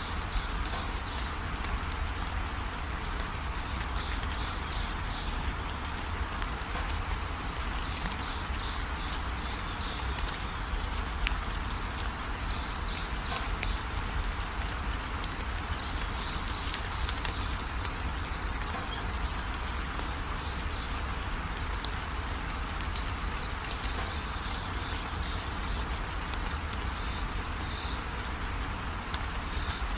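Steady rain falling, with a small bird chirping in quick clusters of short, high notes every few seconds.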